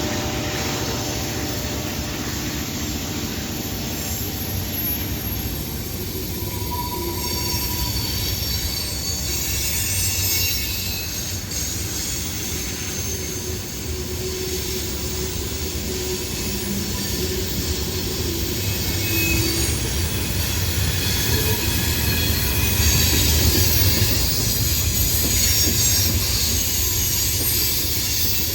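CSX freight train cars rolling past, steel wheels on the rail giving a steady rumble with thin high-pitched squeals that grow stronger in the second half.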